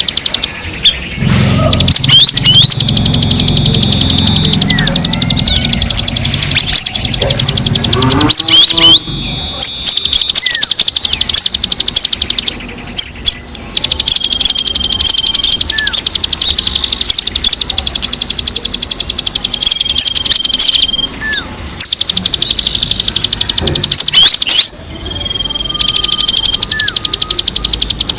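Songbirds calling together: a fast, high, continuous chattering trill with short whistled notes repeated every few seconds and quick rising chirps, used as a recording to call and stimulate wild and caged birds. A low rumble sits under the birds for the first few seconds, and the sound breaks off briefly several times.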